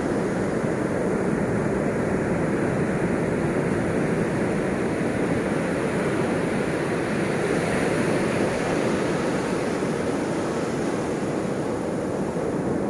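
Ocean surf: a steady, continuous wash of waves that swells slightly around the middle and eases off again.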